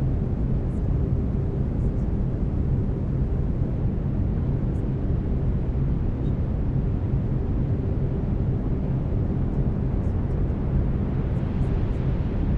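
Steady brown noise, strongest in the low end and thinning toward the treble, with faint low steady tones of binaural beats underneath.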